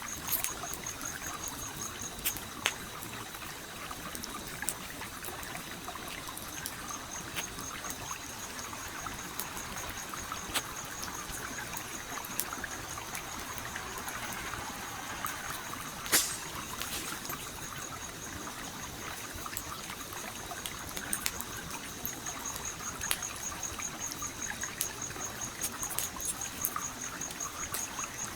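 Stream trickling and flowing steadily, with a campfire crackling over it in scattered sharp pops, the loudest about sixteen seconds in. A high, fast-pulsing trill runs through most of it.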